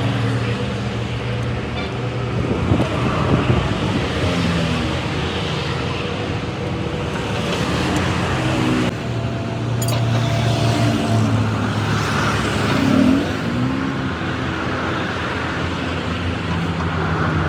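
Busy road traffic: vehicle engines running steadily under a continuous road noise, with vehicles passing and a few sharp knocks a few seconds in.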